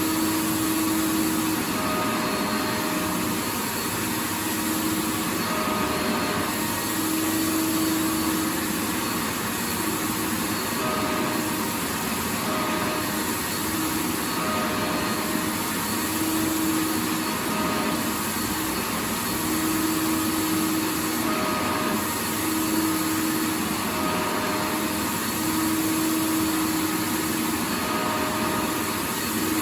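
Vacuum cleaner motor running continuously: a steady rushing hiss with a low hum that fades in and out every second or two.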